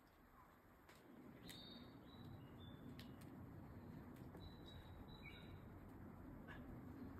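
Near silence with faint bird calls: short high chirps scattered through, plus a few faint clicks.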